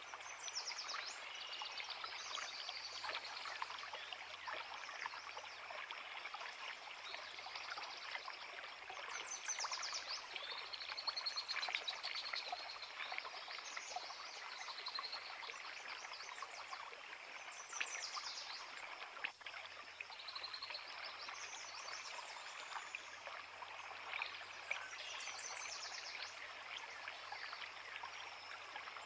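Forest creek running steadily, with several birds singing short chirps and trills on top throughout.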